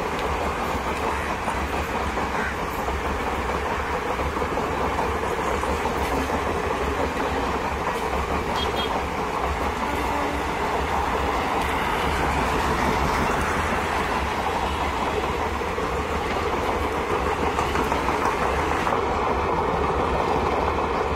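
Indian Railways passenger coaches running past at speed: a steady, continuous rumble and rattle of wheels on the rails. A few faint steady tones join near the end.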